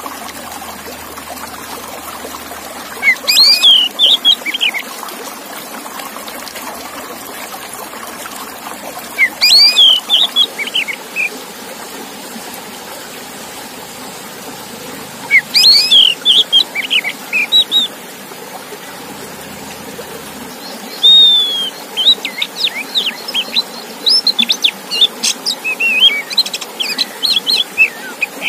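Male Oriental magpie-robin (kacer) singing: short phrases of fast, clear whistled notes that rise and fall, coming about every six seconds, then a longer, busier run of song from about two-thirds of the way in, over a steady background hiss.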